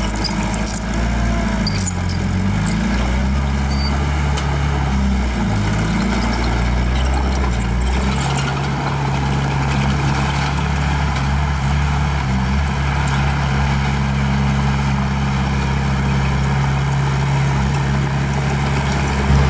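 Small bulldozer's diesel engine working, its pitch rising and falling over the first eight seconds or so, then running steadily.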